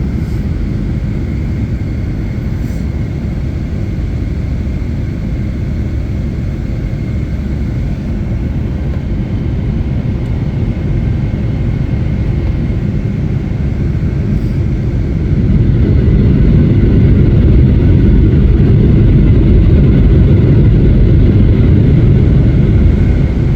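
Boeing 757-200 jet engines at takeoff thrust: a loud, steady low rumble with a faint whine above it, which gets louder about two-thirds of the way through and then holds.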